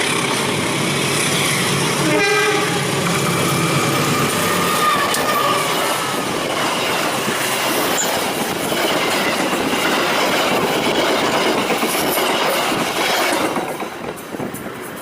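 A train running past close by: a steady rush of wheel and running noise with clattering over the rail joints. A short horn sounds about two seconds in, and the noise falls away near the end as the train clears.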